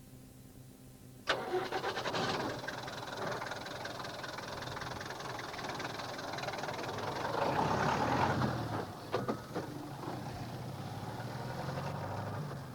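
Sound effect of an engine starting: a sudden rapid clicking about a second in, then the engine running steadily, swelling louder about seven seconds in, with two sharp clicks shortly after.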